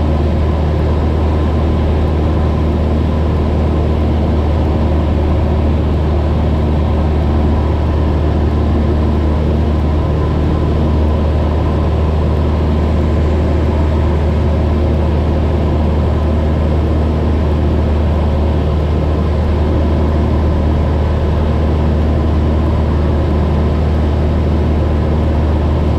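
Cessna 172's piston engine and propeller heard inside the cabin in flight: a loud, steady drone with a strong low hum that holds an even pitch throughout.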